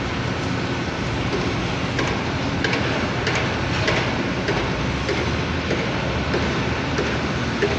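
Steady workshop rumble with scattered light clicks and taps starting about two seconds in, from parts and tools being handled during disassembly of a hydraulic outrigger extension cylinder.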